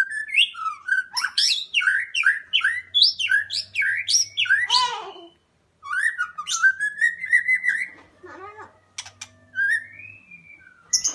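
A young songbird, about five months old and just out of its spotted juvenile plumage, practising its song: a run of quick whistled notes rising and falling, a brief pause about five seconds in, then more whistling that trails off into softer, scattered calls.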